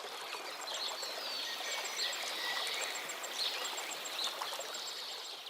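Outdoor natural ambience: a steady background hiss with small birds chirping now and then and a faint, regular high ticking. The sound begins to fade away near the end.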